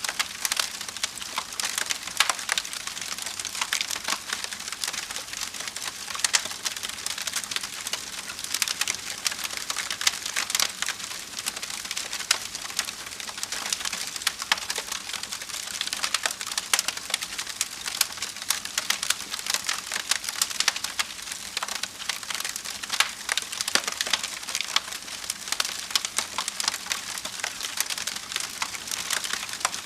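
Wood fire burning in a fireplace: constant dense crackling and snapping over a soft hiss, with sharper pops scattered throughout.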